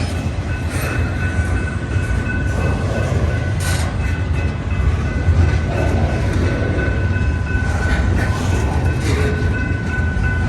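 Freight cars of a long mixed train rolling past at speed: a steady low rumble with occasional sharp clacks of wheels over rail joints and a faint steady high ringing tone.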